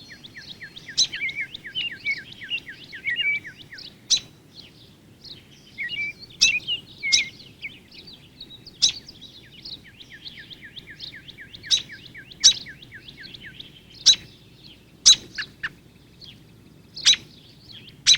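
Backyard songbirds calling: rapid runs of short down-slurred notes, broken by sharp, loud chip-like calls every second or two.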